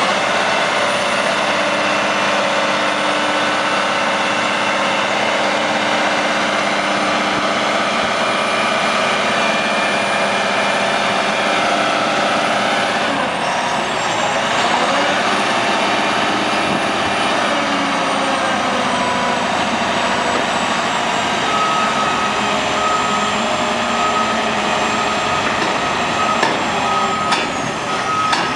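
Heavy diesel engine of an oilfield rig-moving truck running steadily under load. Its pitch dips and rises about halfway through, and a steady high whine joins in the second half.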